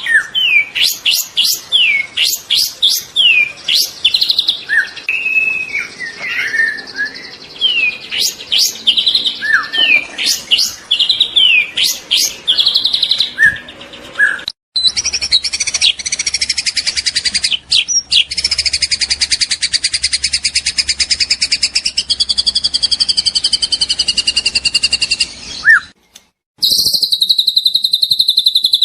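Juvenile white-rumped shama singing: quick varied whistles and sharp downward-sweeping notes, then about halfway through a long, very fast buzzing trill that breaks off abruptly and resumes near the end.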